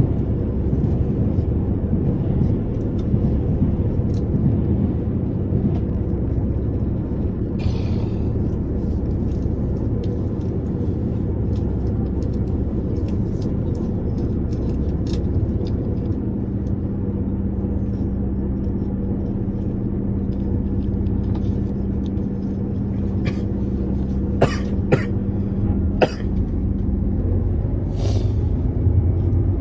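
JR Shikoku 2700 series diesel railcar running with a steady low rumble. About halfway a steady hum joins in and stops near the end, with a few sharp clicks shortly before and short hissy bursts about eight seconds in and near the end.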